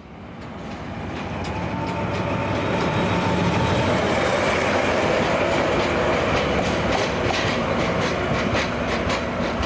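Diesel train running on the rails: a low engine drone with wheel and rail noise, rising in level over the first two or three seconds and then steady.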